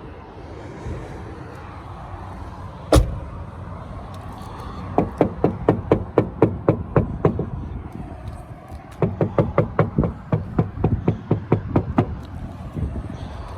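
Knocking on a BMW E46's car door: one hard knock about three seconds in, then two runs of quick knocks at about four a second, over a steady low background noise.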